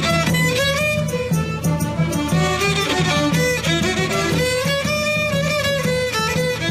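Youth string orchestra playing a melody, violins leading over a low note repeated in a steady pulse.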